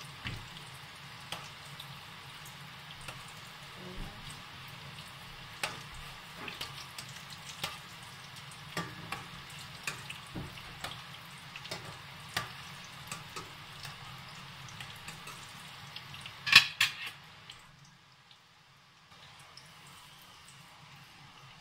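Breaded chicken kofta sizzling in hot oil in a stainless steel pot, with a metal slotted spoon clinking now and then against the pot as they are turned. About three-quarters of the way through there is a louder metal clatter as the spoon is laid on a metal tray, and the sizzle is quieter after it.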